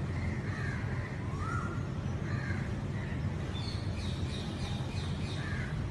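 Birds calling in short, repeated calls over a steady low hum.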